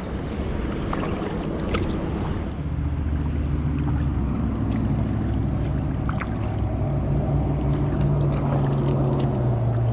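Highway traffic on the Highway 70 bridges ahead: a steady low drone of engines and tyres, with a deeper engine note swelling about two-thirds of the way through. Light drips and ticks from a kayak paddle over it.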